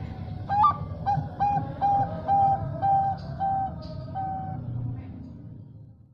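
Zebra dove (Thai-bred perkutut) cooing: a high, rising opening note, the 'screaming front voice' breeders prize, followed by seven short, even coos at about two a second that stop about four and a half seconds in. A steady low rumble runs underneath, with a couple of faint high chirps from other birds.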